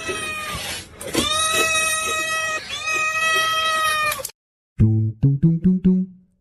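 A cat yowling in three long, drawn-out calls, each held at a steady pitch for over a second. It cuts off suddenly about four seconds in, and a quick low plucked tune begins near the end.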